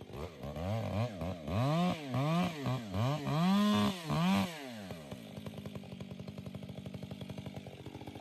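Chainsaw engine revved up and down in a string of quick throttle blips, the last held briefly, then dropping to a steady, rapidly pulsing idle about five seconds in.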